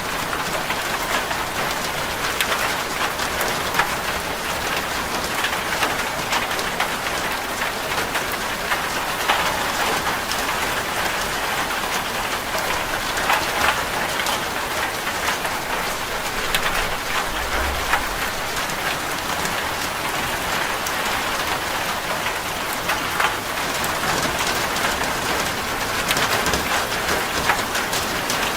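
Rain falling on a corrugated zinc roof: a steady hiss thick with sharp ticks of individual drops striking the metal.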